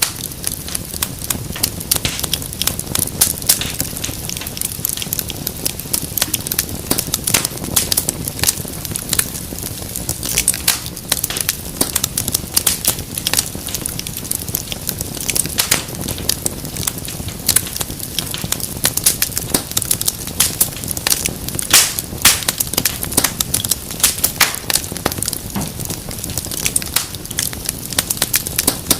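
Wood fire burning in a fireplace, with dense, irregular crackling and popping over a steady low rush of flame.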